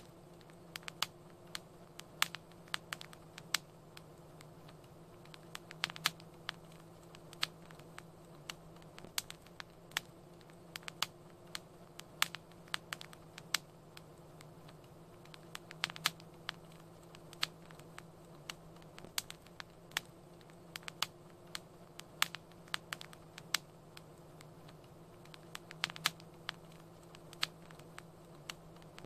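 Wood fire crackling in a fireplace: sharp irregular pops and snaps, several a second, over a soft steady hiss of burning.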